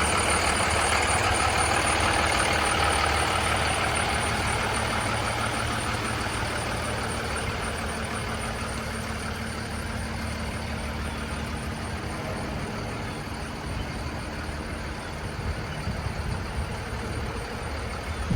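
A Cummins ISB diesel engine in a Freightliner M2 box truck, idling steadily. It is a little louder in the first few seconds.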